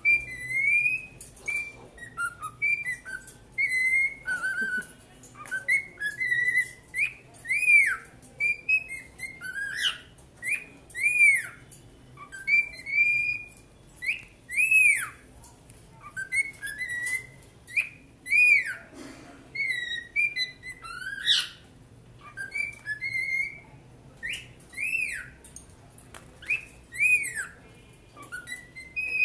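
Two young pet cockatiels singing: a continuous run of short, clear whistled notes, many arching up and down in pitch, with barely a pause between them.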